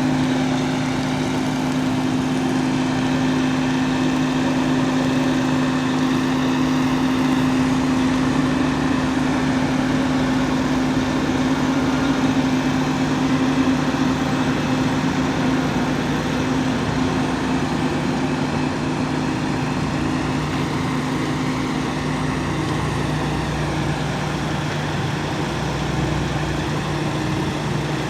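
Fire truck's engine running steadily at idle, with a steady hum that drops away about three-quarters of the way through, leaving the lower engine drone.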